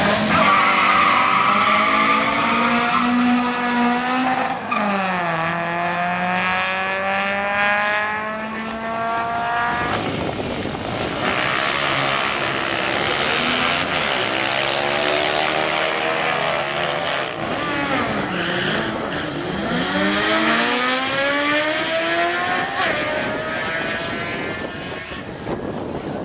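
Racing engines accelerating hard at full throttle, their pitch climbing and dropping sharply at each gear change, with a few runs in a row.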